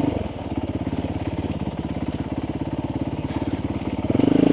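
Motorcycle engine running at low revs, its firing pulses chugging evenly, then the throttle opens and it gets louder near the end.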